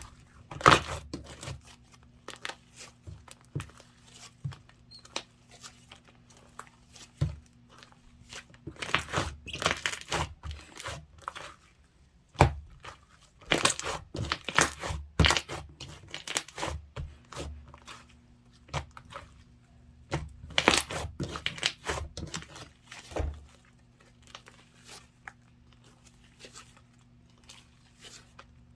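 Slime being handled: squished, stretched and poked by hand, giving irregular sticky pops, crackles and crinkly tearing sounds in clusters with short pauses between them.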